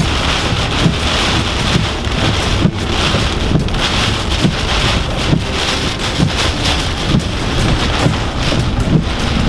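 Hurricane-force rain and wind beating on a car, a dense steady downpour hiss that swells and eases with the gusts, with scattered small knocks of heavy drops.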